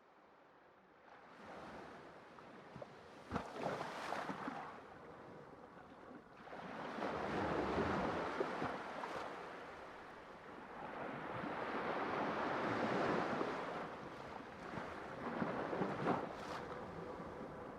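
Sea waves breaking and washing on a shore, swelling and ebbing in slow surges every few seconds, with a few brief crackles of splash.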